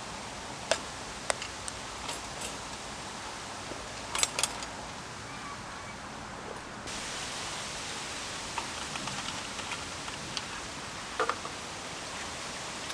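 Campfire crackling: scattered sharp pops, a quick cluster of them about four seconds in, over a steady rushing noise.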